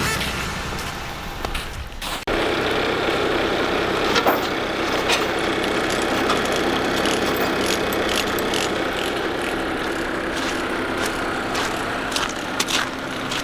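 An engine running steadily, starting about two seconds in after a sudden cut, with scattered short metallic clicks over it.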